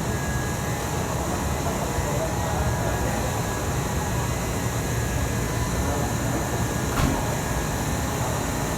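Steady din of an underground railway station platform: a low ventilation hum and hiss with a faint murmur of people, and a short click about seven seconds in.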